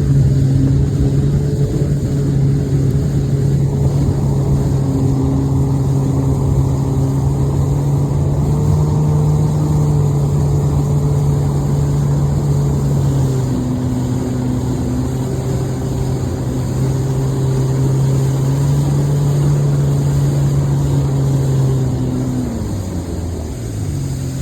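Boat engine, most likely the outboard on a Godfrey Sweetwater pontoon boat, running at a steady speed. Its note drops near the end as the engine slows.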